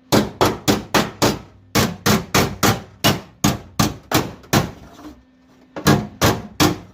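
Hammer striking a sheet-steel patch panel to work it down tight into a car's trunk floor: a quick run of about fifteen sharp metallic blows at roughly three a second, a short pause, then three more near the end.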